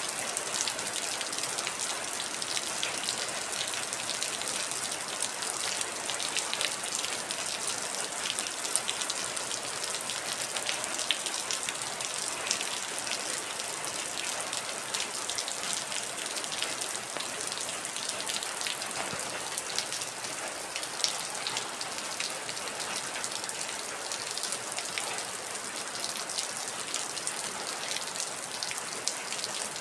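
Heavy rain falling steadily, an even hiss full of close individual drops pattering on a surface.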